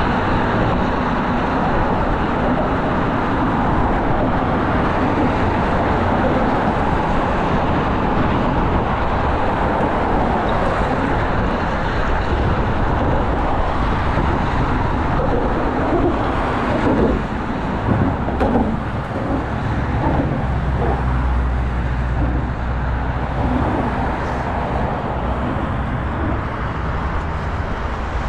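Steady road traffic noise, cars going by, with a few louder knocks about two-thirds of the way through and a deeper rumble after them.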